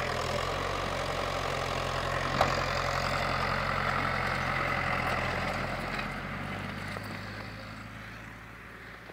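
A motor vehicle's engine running steadily with a low hum, with a single sharp knock about two and a half seconds in. The engine sound fades over the last few seconds.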